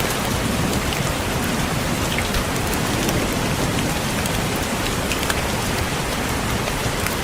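Steady rain falling, with a continuous hiss and faint scattered ticks of individual drops; the rain is billed as falling on a window.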